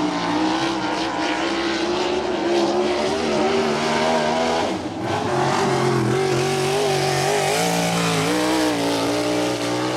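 Non-wing USAC sprint car's 410 cubic inch V8 running hard on a qualifying lap of a dirt oval. The engine note dips briefly about halfway through as the driver lifts for a turn, then climbs again under throttle.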